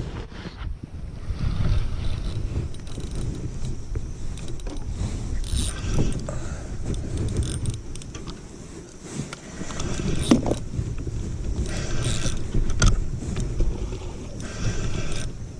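Knocks and rattling of fishing gear against a kayak, with several short bursts of splashing, as a hooked redfish is fought to the boat.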